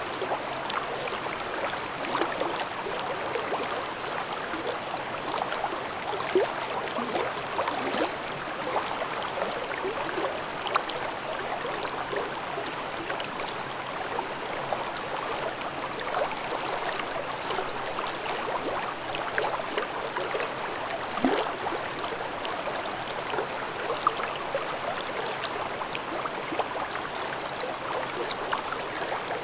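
Shallow valley stream babbling steadily over rocks, with continuous gurgling and small splashes.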